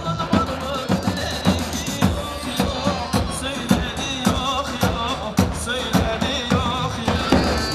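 Live halay dance music, an instrumental passage: a wavering, ornamented melody line over a steady drum beat.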